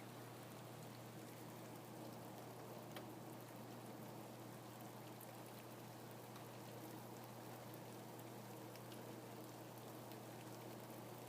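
Steady, faint rain, with scattered single drops ticking through an even hiss.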